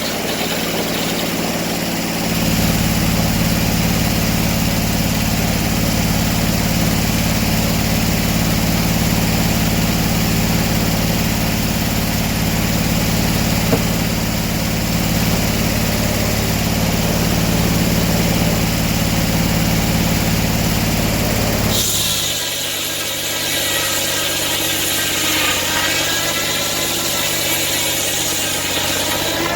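An engine running steadily, getting louder and working harder about two seconds in. About three-quarters of the way through, the low engine sound drops away and a wavering higher whine takes over.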